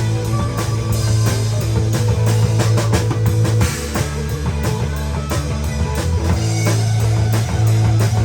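A live band playing a rock song: a drum kit keeping a steady beat under guitar and sustained low bass notes.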